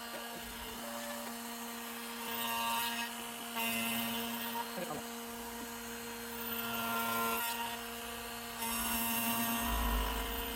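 CNC router spindle spinning a 1.5-inch fly-cutting wheel with a steady whine, broken by four louder stretches of cutting noise as the cutter bites into the American mahogany slab while surfacing it flat.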